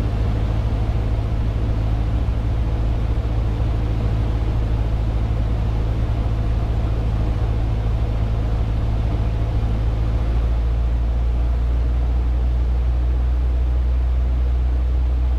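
Cessna 150's four-cylinder Continental O-200 engine and propeller droning steadily in flight; the deepest hum grows a little stronger about ten seconds in.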